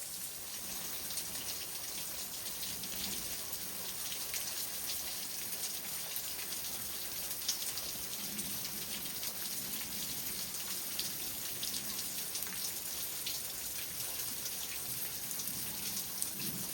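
Water dripping from ice in a rock overhang: many small, irregular drops pattering steadily onto rock and ice.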